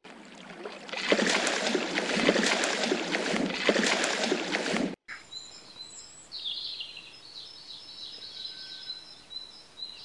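Water splashing hard and continuously for about five seconds, then an abrupt cut to quieter wetland ambience with small birds chirping high in the background.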